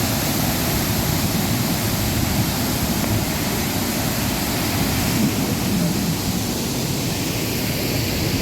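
Waterfall plunging into its pool: a steady, loud rush of falling water with no breaks.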